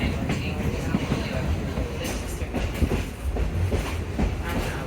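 An old rail car running along the track, heard from on board: a steady low rumble with irregular knocks and clatter.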